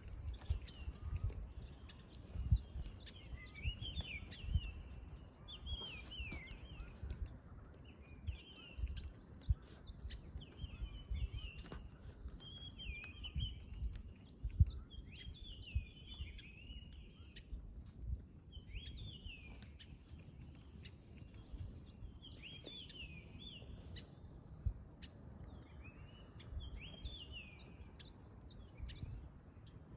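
A wild bird singing the same short phrase of quick curving notes over and over, about every one to two seconds, over the crackle and pop of burning firewood in an open campfire, with irregular low rumbles.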